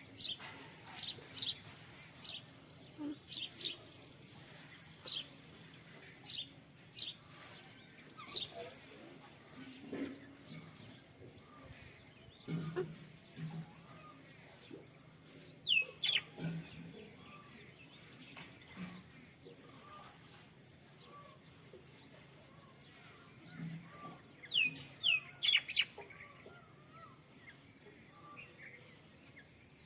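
Small birds chirping in short, high chirps. They come in a scatter of single calls, then a quick cluster about halfway, and a denser flurry near the end.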